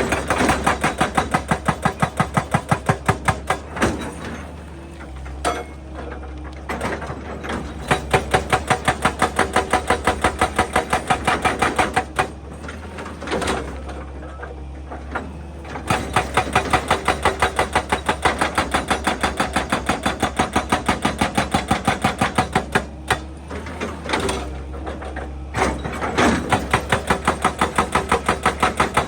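Excavator-mounted hydraulic breaker hammering rock in rapid blows, several a second, in runs of a few seconds with short pauses, over the steady hum of the machine's engine.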